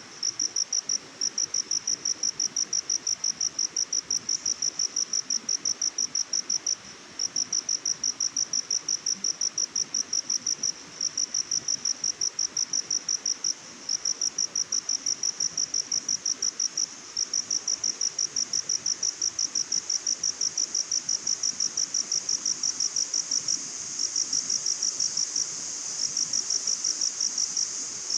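A cricket singing: long trains of rapid, evenly spaced high-pitched chirps, each train lasting a few seconds with brief pauses between them. A steady high insect hiss builds beneath it in the last few seconds.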